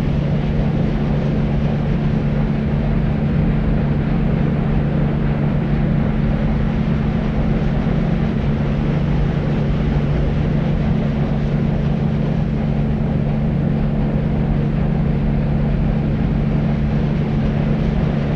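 Deep white noise for sleep: an even, unchanging low rushing noise, heaviest in the bass with a steady low hum in it and little hiss at the top.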